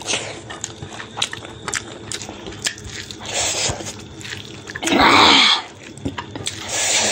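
Close-up chewing and wet mouth clicks of someone eating rice and pork gravy by hand. There are short noisy bursts at about three and a half seconds and near the end. The loudest burst comes about five seconds in.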